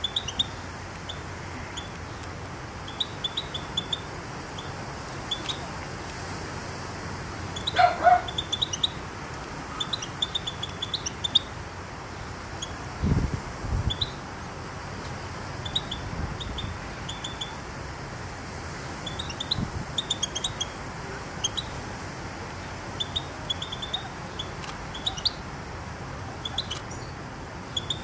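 Small birds chirping in short, high, repeated twitters over a steady hiss. One louder, lower call stands out about eight seconds in, and a brief low bump comes around thirteen seconds.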